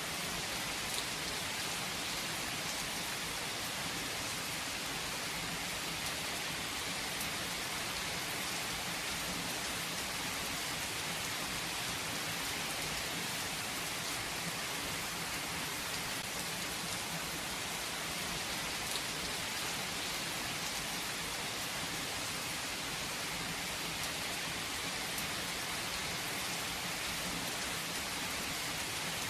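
Steady rain falling and pattering on surfaces, with scattered drops ticking in a constant hiss.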